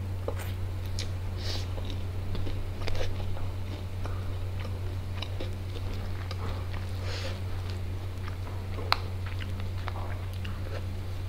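Close-miked chewing and biting of fried chicken and biryani rice eaten by hand: scattered wet mouth clicks and smacks, with one sharp click about nine seconds in, over a steady low hum.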